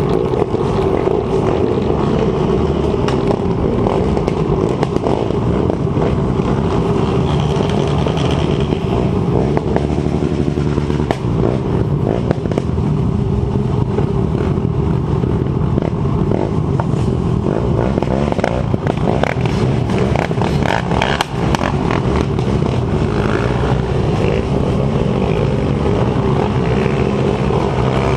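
Dirt bike engine running steadily under way, with scattered rattles and knocks over it.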